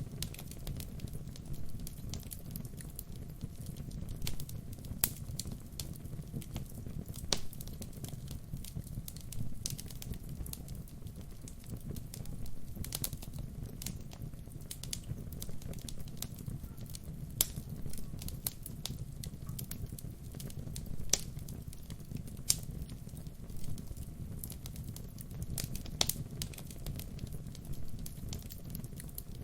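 Wood fire burning, with a steady low rumble of flames and frequent irregular sharp crackles and pops from the burning logs.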